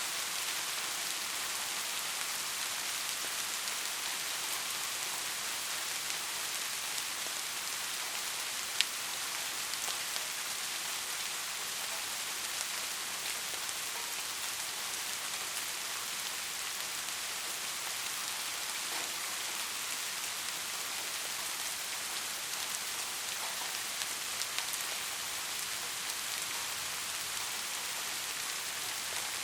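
Steady rain falling, an even hiss with scattered drop ticks and one sharp, louder tick about nine seconds in.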